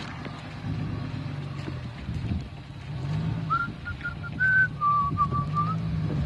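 Jeep engine running with a low hum that rises and falls in pitch. About halfway in, a person starts whistling a short tune of several held notes, louder than the engine.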